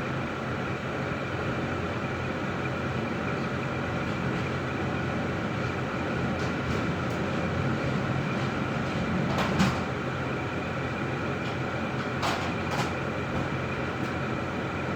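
Cadillac STS's 3.6-litre V6 idling steadily, with a few short clicks partway through: one a little before halfway, two more near three-quarters of the way in.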